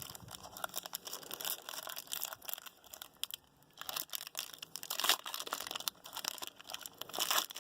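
Plastic packaging of a box of Panini Infinity football cards being torn open by hand: irregular crinkling, crackling and tearing, with a short pause a little past the middle.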